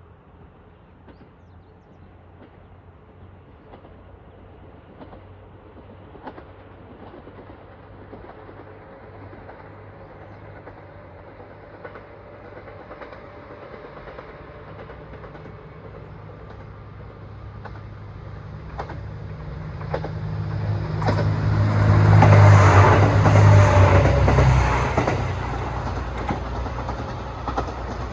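Red diesel railcar approaching and passing: a low engine hum and the clickety-clack of wheels over rail joints grow steadily louder, are loudest about 22 to 25 seconds in as it goes by, then ease off.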